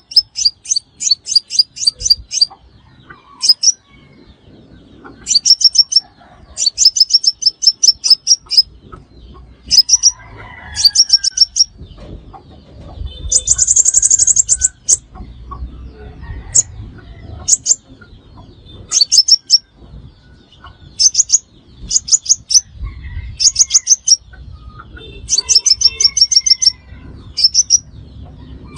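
Sunbird calls: short trains of rapid, high-pitched chips, repeated every second or so, with one denser, buzzier burst about halfway through.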